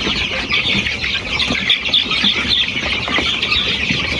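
A brood of about 200 hungry chicks peeping all together in a dense, continuous high chorus.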